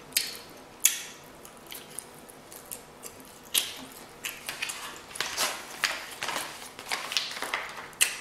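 Close-miked chewing of a mouthful of pasta: wet smacking mouth sounds and short sharp clicks, two distinct ones in the first second and a busier run after about four seconds.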